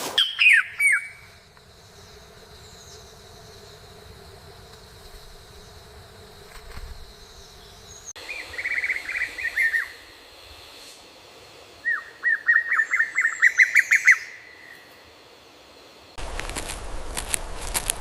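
A bird chirping in three bursts of quick, falling chirps, the longest a run of about a dozen near the end. Near the end a steady rustling noise starts suddenly.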